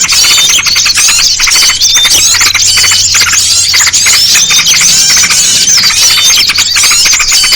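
Dense, unbroken chorus of many small birds chirping and chattering over one another, a lure recording mixing yellow-vented bulbul (trucukan) calls with other small songbirds.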